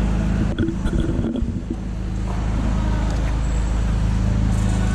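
Steady low mechanical hum, with a short cluster of clicks and knocks about half a second to a second and a half in.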